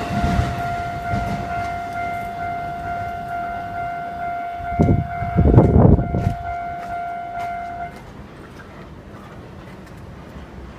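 The rumble of a passing electric train fading away under the steady ringing of a Japanese level-crossing alarm, which stops about eight seconds in as the crossing clears. Two short, louder noisy bursts come about halfway through.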